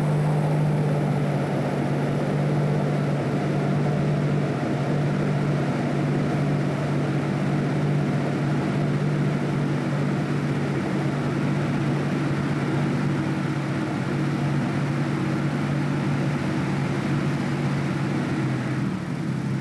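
Toyota Pickup's 3.0 L 3VZ-E V6 running steadily at raised revs, held near 2,500 RPM for the oxygen-sensor switching test on an engine that runs rich.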